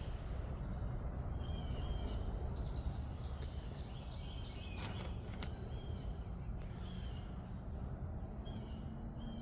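Small birds chirping in short, high calls repeated about once a second, over a steady low outdoor background noise.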